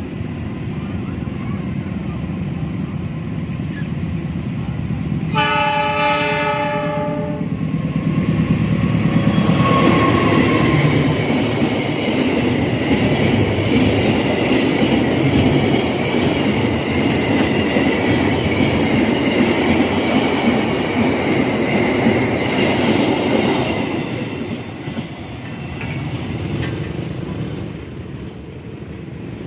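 Diesel locomotive hauling a Pertamina fuel tank train: it sounds its horn for about two seconds, then the train passes close with a loud rumble, wheel clatter and a wavering high metallic squeal from the wheels, which fades away near the end.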